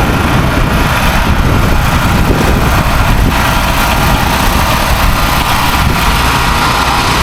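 Steady car engine and road noise from inside a moving car.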